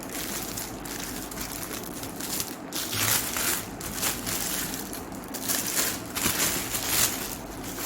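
Packaging being handled and unwrapped, crinkling and rustling in uneven bursts as a tool is taken out of its box.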